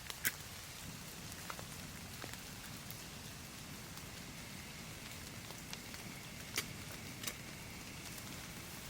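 Steady rain falling and pattering on trees, with a few sharp, louder drop impacts close by.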